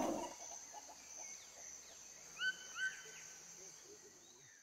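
Faint woodland ambience with a steady high insect-like drone. Two short bird chirps, each rising and then holding, come about two and a half seconds in. The tail of animal barking fades out at the very start.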